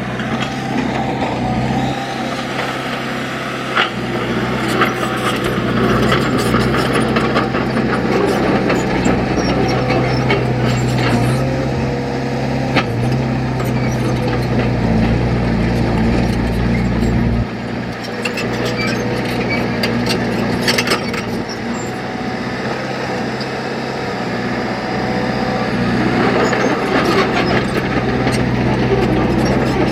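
Heavy diesel engine of earthmoving machinery running steadily, with scattered metallic clanks and knocks.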